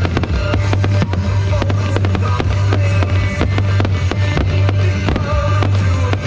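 Fireworks going off in a rapid string of bangs and crackles over loud music with a steady deep bass.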